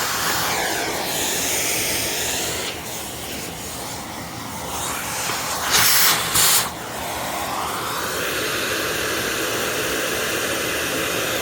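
A jet of air blowing dust out of a dirty vacuum cleaner's parts, a steady hiss whose pitch sweeps as the stream moves over the surfaces, with two short louder blasts about six seconds in.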